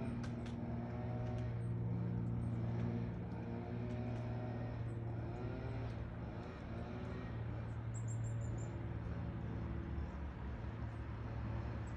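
Steady low hum of an idling motor vehicle engine close by, with a brief high twitter of a small bird about eight seconds in.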